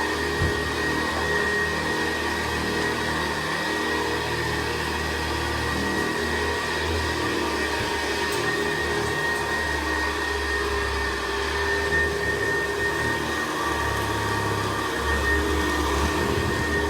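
1960s Hoover Senior upright vacuum cleaner running steadily, its motor giving a high, even whine over a low hum that swells and fades. The brush roll turns on bearings that the owner says are due for replacement.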